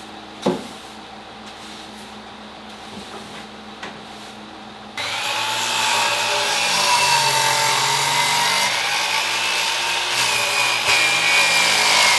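A couple of knocks, then about five seconds in a thickness planer starts suddenly and runs loudly with a wavering whine as it planes a glued-up hardwood cutting-board blank.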